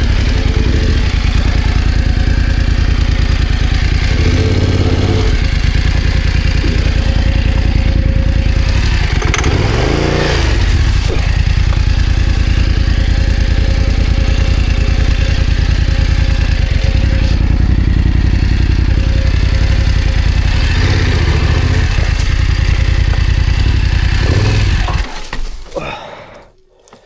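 BMW F900GS's parallel-twin engine running at low revs, revved up and back down once about ten seconds in, then cutting off near the end.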